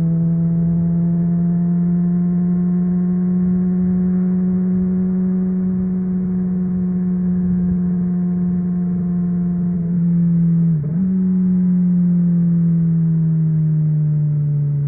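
Honda CBR600RR inline-four with a MIVV Suono aftermarket exhaust, running at a steady engine speed. The pitch holds nearly level, dips briefly about eleven seconds in, then eases down near the end.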